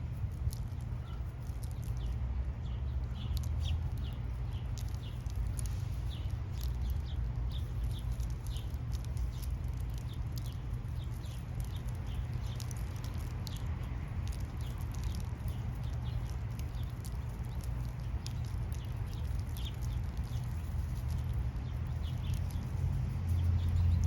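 Small birds chirping, many short calls in quick irregular succession, over a steady low rumble.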